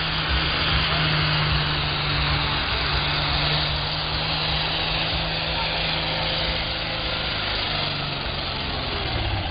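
Super Farm class pulling tractor's turbocharged diesel engine running loud and steady at an even pitch, with a dense rushing hiss over it.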